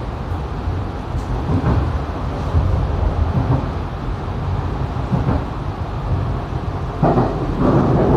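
Interior running sound of a Tokyo Metro 7000 series train: a steady low rumble inside the car that grows louder about seven seconds in.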